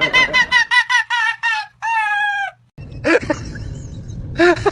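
Rooster crowing: a fast run of short notes ending in one long falling note that cuts off about two and a half seconds in. A few short high cries follow.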